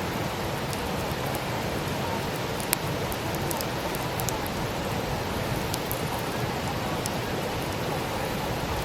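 Wood campfire burning: a steady hiss of flames with scattered small crackles and pops of burning wood, one sharper pop about three seconds in.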